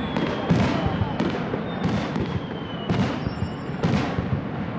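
Aerial firework shells bursting in quick succession, about six sharp booms over continuous crackling, with a faint falling whistle now and then.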